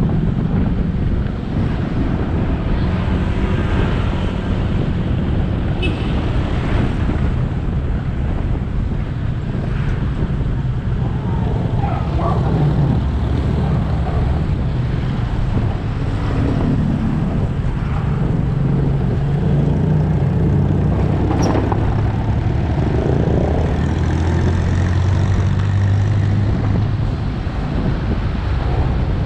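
Motorcycle engine running under way, heard from the rider's position, with tyre and wind noise from the road. The engine note shifts up and down as the speed changes, settling lower for a stretch near the end.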